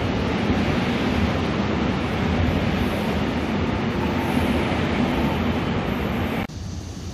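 A train passing close by, a steady rushing rumble that cuts off abruptly about six and a half seconds in, leaving a quieter steady background noise.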